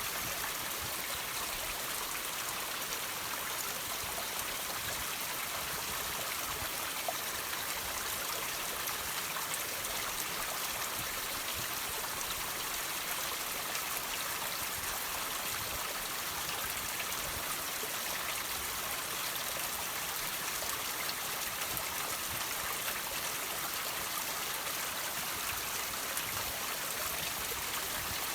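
Water trickling and dripping off rocks: a steady, even hiss of running water with small drips ticking here and there.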